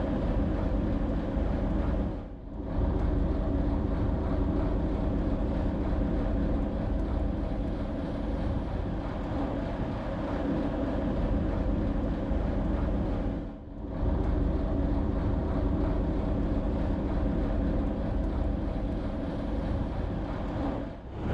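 The barge's inboard engine running steadily with a low, even hum, with some wind on the microphone.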